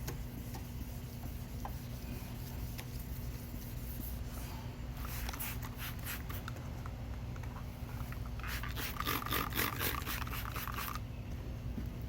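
Wet sandpaper on a wooden block rubbed quickly back and forth over a plastic headlight lens, in two runs of rapid scratchy strokes, the longer one about two-thirds of the way through, over a steady low hum.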